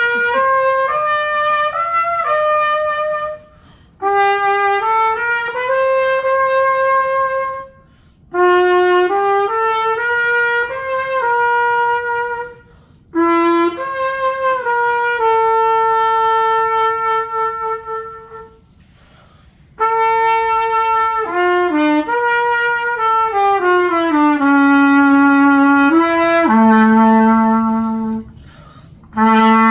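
An MBAT cornet being play-tested: single melodic lines of separate notes in short phrases, with brief pauses between them. Near the end a phrase steps down into the instrument's low notes.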